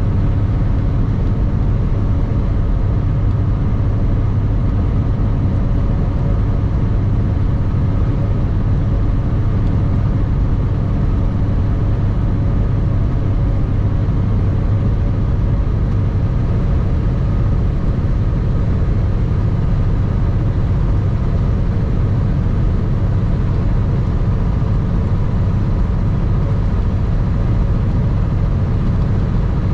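2021 Kenworth W900 semi truck's diesel engine running steadily at cruise, its pitch and loudness unchanged throughout, over a steady rush of road noise.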